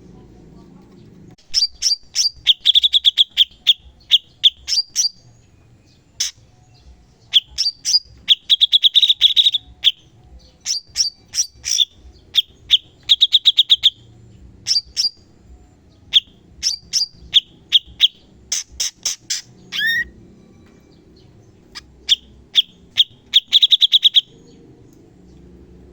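Cucak cungkok songbird singing fast 'tembakan' phrases: bursts of sharp, high, rapidly repeated notes and trills, each phrase lasting a second or two with short pauses between. Near the middle, one phrase ends in a downward-sliding note.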